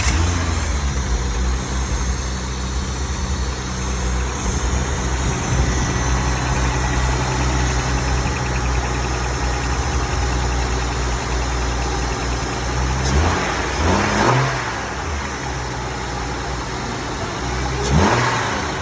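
1998 Honda Accord EX's 3.0-litre V6 running just after a cold start on a newly fitted catalytic converter: the revs settle down in the first second into a steady idle, then the throttle is blipped briefly about two-thirds of the way through and again near the end.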